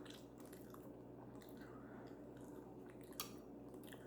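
Faint close-miked chewing of food, with a few soft mouth clicks, the clearest about three seconds in.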